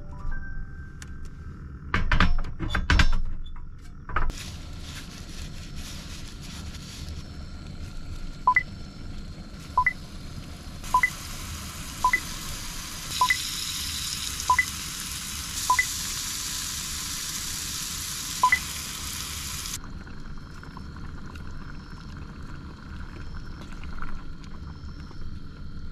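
Meatballs sizzling in a cast takoyaki plate, a steady hiss that fades out near the end. About two seconds in, cooking utensils clatter loudly. Through the middle comes a series of short, sharp beeps about a second apart.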